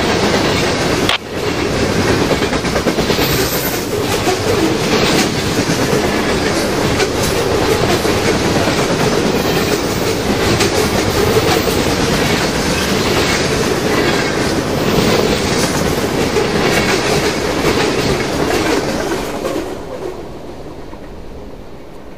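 Long freight train passing at speed, its wheels clattering over the rail joints, falling away near the end as the last cars go by.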